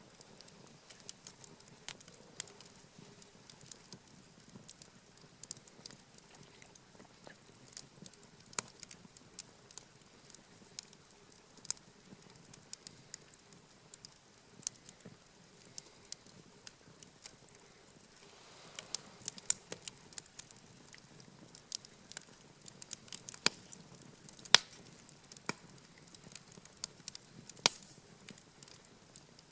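Wood campfire crackling, with irregular sharp pops and snaps over a faint steady background, busier a little past the middle.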